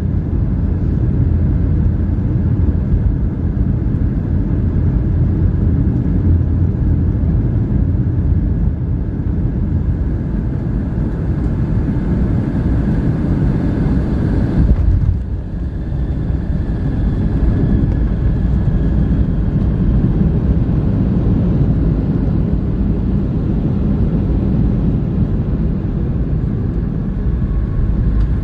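Cabin noise inside a Boeing 757-300 airliner: a loud, steady, deep rumble of engines and airflow, which dips briefly about halfway through and then settles again.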